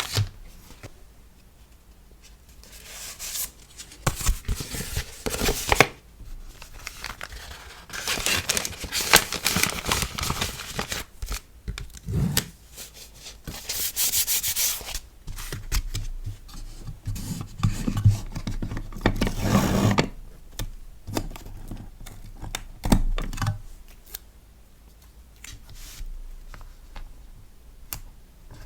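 Hands rubbing, rustling and sliding paper and plastic packing materials while packing a sticker order. The sound comes in irregular stretches with a few sharp clicks and is quieter near the end.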